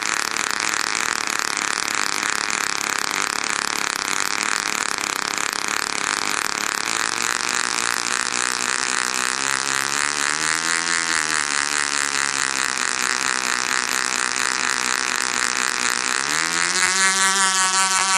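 Du-Bro Whirlybird 505 radio-control helicopter's model engine and rotor running with a fast, steady pulsing. The pitch swells up and back down around the middle. Near the end it speeds up to a higher, louder pitch. The main rotor blades are slightly misaligned and set the helicopter shaking.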